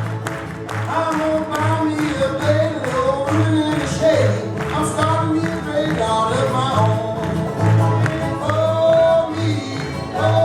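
A Cajun string band playing live, with singing over the music. A steady bass beats about twice a second beneath wavering melody lines.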